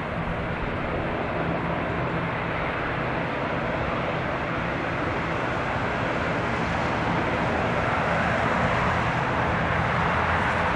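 Turboprop airliner's engines and propellers running: a steady drone over a low hum, growing gradually louder.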